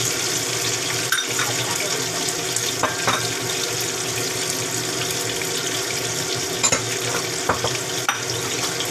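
Sliced vegetables sizzling in hot oil in a wok, a steady hiss, with a few short sharp knocks of a wooden spatula against the pan.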